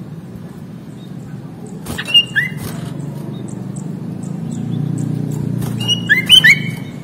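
Sooty-headed bulbul (kutilang) singing short rising whistled notes: two about two seconds in, then a quicker run of several near the end, over a steady low background hum.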